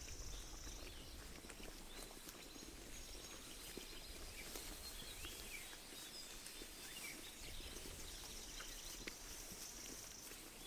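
Faint sheep-pasture ambience: scattered birds chirping, with soft clicks of sheep tearing and chewing grass.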